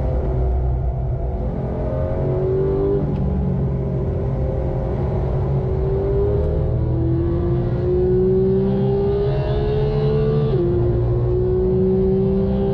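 Porsche 991.2 GT3's naturally aspirated 4.0-litre flat-six under hard acceleration, heard from inside the cabin: the engine note climbs steadily through the revs and drops sharply at an upshift about ten and a half seconds in, over steady tyre and road rumble.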